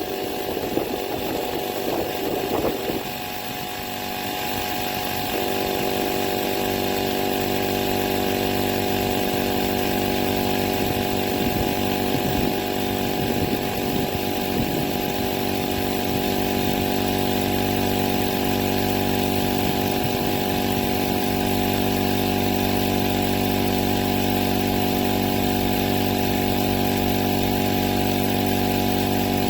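Rechargeable portable air compressor running with a steady motor-and-pump drone. The sound is uneven for the first few seconds, then settles into one constant pitch.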